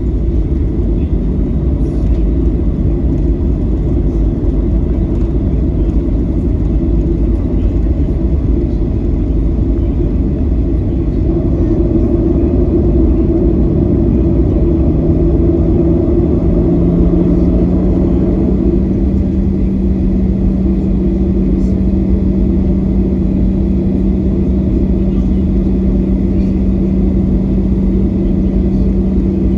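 Boeing 737-900 cabin noise: a steady low rumble of the CFM56 jet engines and airframe heard from inside the cabin. A hum in it rises in pitch a little past the middle, then holds steady.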